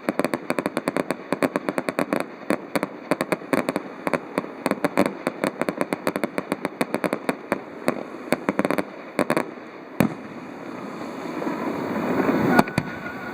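Fireworks crackling in a rapid, dense run of sharp pops for about nine seconds, then a single sharp bang about ten seconds in, with more bangs near the end.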